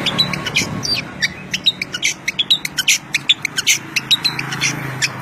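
A songbird singing a fast, dense stream of short, sharp chirps, several notes a second without pause, over a low steady hum.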